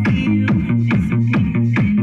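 Electronic dance music played loud through a tricycle's custom sound system, with a heavy, falling bass kick about four times a second under a steady bass note.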